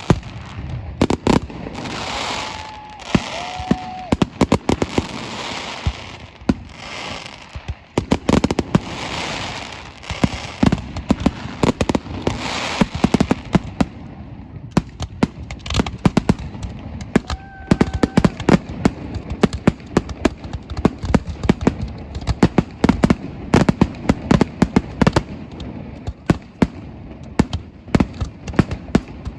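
Fireworks display: a rapid barrage of bangs and crackles, with bursts of hiss in the first half and denser, sharper cracks through the second half.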